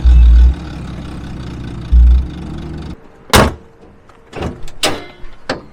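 A car engine running with a steady low rumble and two loud, deep surges, the first right at the start and the second about two seconds in. It stops abruptly about three seconds in, followed by four sharp knocks like car doors or a hood being shut.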